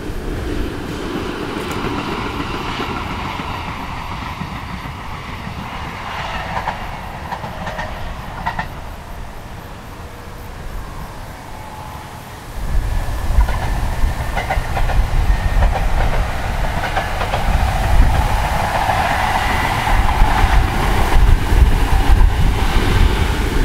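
ET127 series electric multiple-unit trains. The first fades away as it leaves. About halfway through, a low wind rumble on the microphone comes in abruptly, and a second ET127 train approaches and passes, its wheels clickety-clacking near the end.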